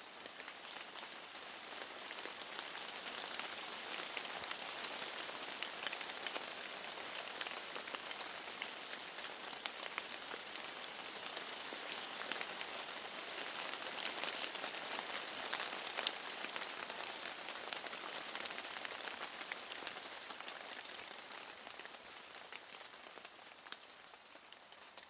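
Steady rainfall, a dense hiss with many separate drops striking, swelling a little through the middle and easing off near the end.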